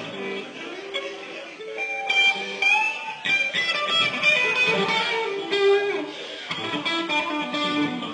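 Electric guitar played live through an amplifier: single-note lead lines with quick runs and bent notes, busiest in the middle of the stretch.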